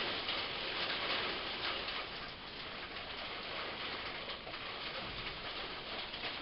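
Steady heavy rain falling during a thunderstorm, a dense spread of tiny drop impacts with no thunder clap.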